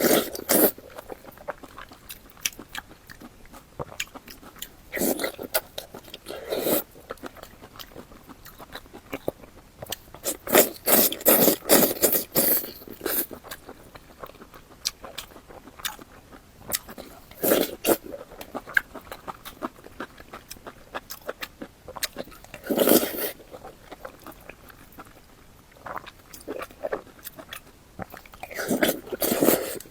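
Close-miked eating sounds: a person biting and chewing food with wet, smacking mouth noises, coming in bunches of clicks every few seconds with quieter pauses between.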